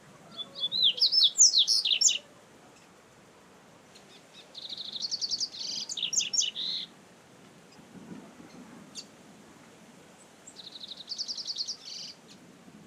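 Double-collared seedeater (coleiro) singing: three fast twittering phrases of rapid, repeated high notes. The first and loudest comes at the start, the next about four and a half seconds in, and the last near the end.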